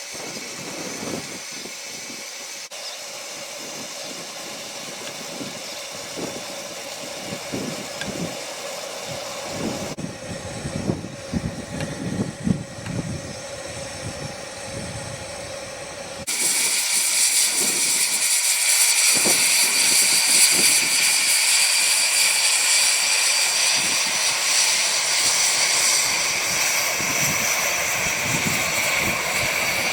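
Steam locomotive hissing. About halfway through, a much louder steady hiss of steam starts suddenly and keeps going, typical of steam blowing off.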